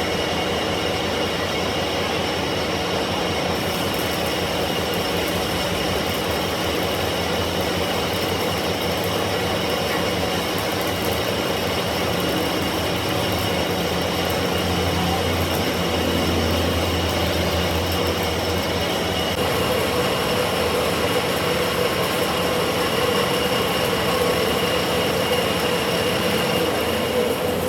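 Metal lathe running, its cutting tool turning a conveyor drum roller: a steady machine hum with a constant high-pitched metal-on-metal whine.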